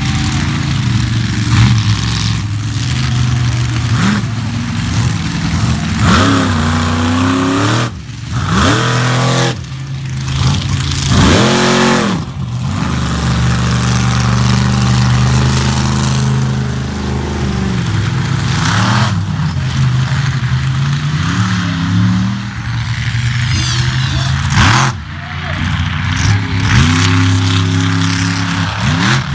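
Monster truck engine revving hard and repeatedly, its pitch sweeping up and falling back over and over, with the throttle briefly chopped off twice partway through.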